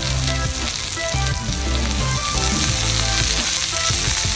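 Beef slices and thiên lý flowers sizzling steadily on a hot shard of an earthenware jar.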